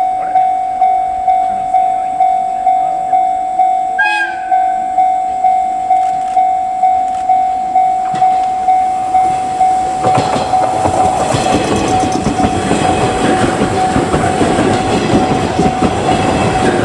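Warning bell ringing in a steady repeating tone, about two to three strokes a second, with a short horn blast about four seconds in. From about ten seconds in, a four-car JR 719-series electric train approaches and passes close by, its wheel and rail noise growing loud and drowning out the bell.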